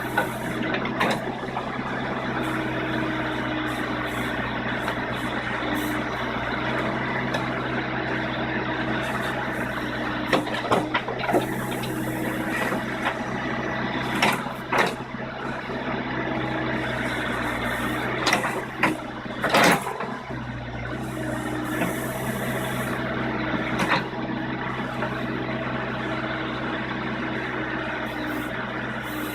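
JCB 214 Series 2 backhoe loader's diesel engine running steadily under work, with several sharp clanks and bangs through it, the loudest about twenty seconds in.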